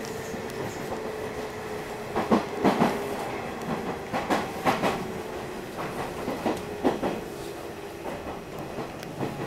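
Nishitetsu 8000-series electric train running, heard from inside the passenger car: a steady hum and rumble with clusters of the wheels clacking over the track, loudest about two and a half seconds in, again around four to five seconds and near seven seconds.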